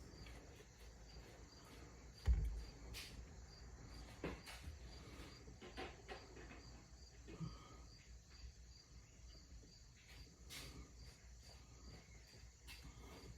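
Quiet work on a car's steering wheel with a small flathead screwdriver: faint scattered clicks and taps, with one low thump about two seconds in, over a faint steady high-pitched background.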